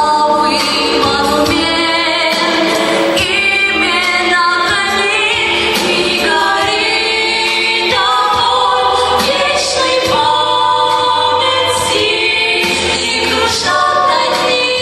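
Choir singing a song, with long held notes.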